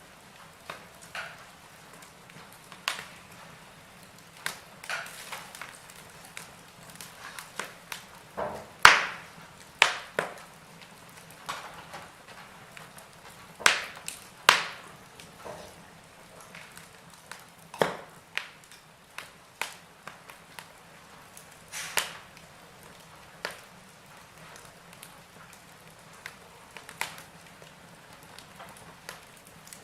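Wood fire crackling in a fireplace: burning logs giving off irregular sharp pops and snaps over a low steady hiss, with the loudest pops bunched near the middle.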